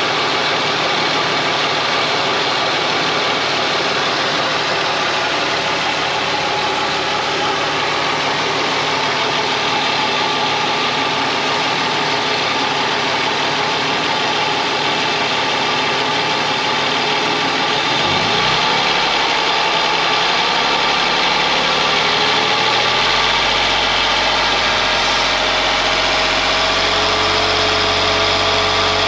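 Ford Mondeo ST220's 3.0-litre V6 idling steadily after being reassembled from a compression test. About 18 seconds in the idle note shifts, and a deeper steady hum joins from about 23 seconds.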